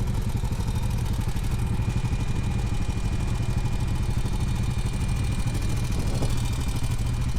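Honda Foreman 520 ATV's single-cylinder engine idling steadily.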